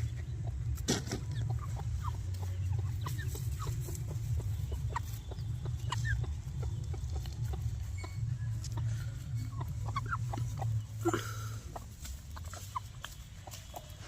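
Chickens of a black-skinned breed clucking with short scattered calls, over a steady low hum.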